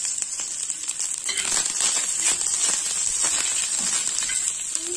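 Sliced onions, chillies and curry leaves sizzling in hot oil on a tawa (flat iron griddle), with a flat metal spatula scraping and stirring across the griddle from about a second in.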